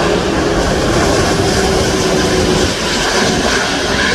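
Cebu Pacific Airbus A330 jet airliner's engines, a loud steady rush of jet noise as it flies past, with a low hum that slowly falls in pitch and fades about two and a half seconds in.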